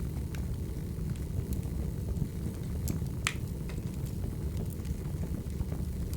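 Wood fire burning, with a steady low roar and scattered sharp crackles and pops, one louder pop about three seconds in.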